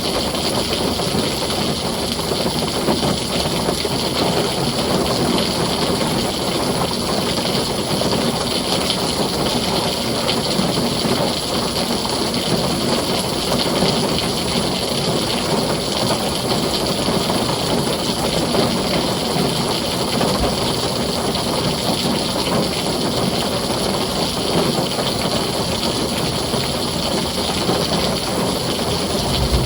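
Heavy rain falling steadily on a tin roof, a dense, even downpour with no break.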